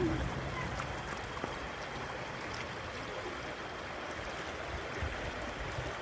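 Floodwater flowing in a steady rush.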